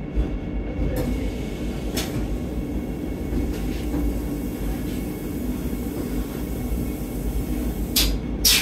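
Steady low rumble inside a Vande Bharat Express electric train coach as it runs, with a faint steady hum. Short sharp clicks come about one and two seconds in, and two brief hissy bursts come near the end.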